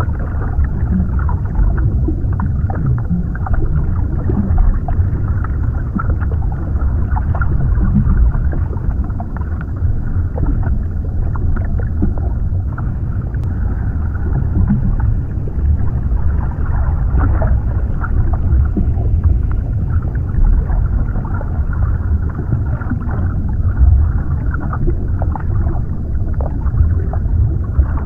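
Underwater ambience: a steady, muffled low rumble of water as heard below the surface, with faint bubbling and crackling.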